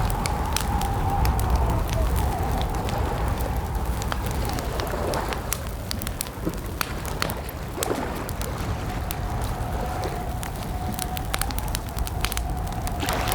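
Campfire crackling, with frequent sharp snaps and pops over a low steady rumble, and a faint wavering tone running underneath.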